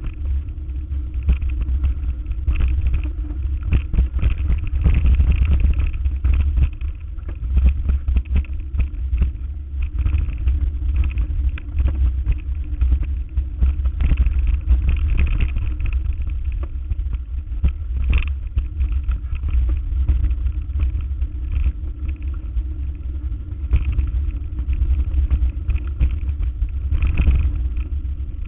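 A motor vehicle driving, a steady low rumble with frequent knocks and rattles throughout.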